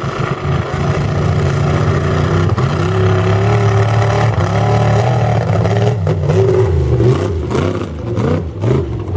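Large vehicle engine running loudly with a slowly wavering pitch, then revved several times in quick rises and falls over the last few seconds.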